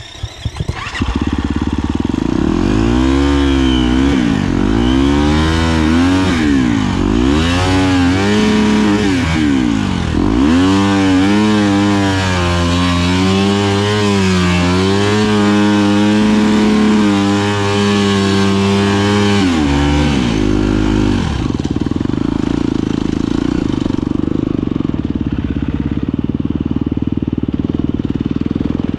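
Husqvarna FE250 single-cylinder four-stroke enduro engine coming in about a second in after a few sharp clicks. It is revved up and down repeatedly, holds steadier revs for several seconds, then drops about twenty seconds in to a rougher, lower steady running.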